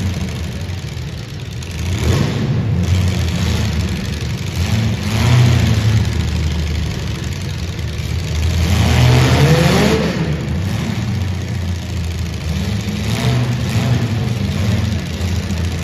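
Compact cars' engines revving in a demolition derby, the pitch climbing and dropping again and again as the cars accelerate and back off, with louder surges a few times.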